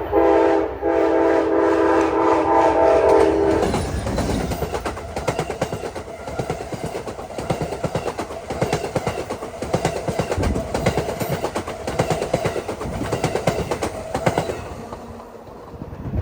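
Amtrak passenger train's locomotive horn sounding a multi-note chord in short breaks and then a held blast that ends about four seconds in. The train then rushes past with rapid clickety-clack of wheels over rail joints, fading away near the end.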